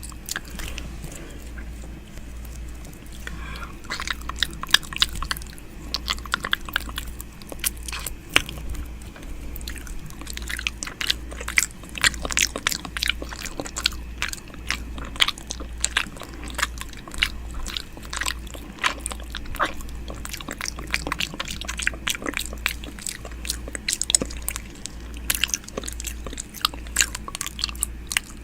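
ASMR 'ear eating' mouth sounds very close to the microphone: many quick wet clicks and smacks in irregular runs, over a steady low hum.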